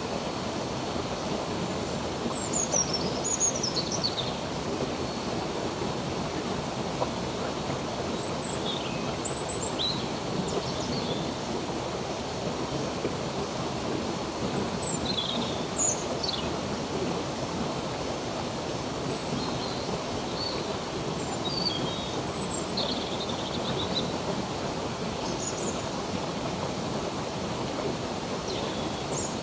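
A stream running steadily, with small birds chirping over it in short high calls and quick falling whistles, scattered through.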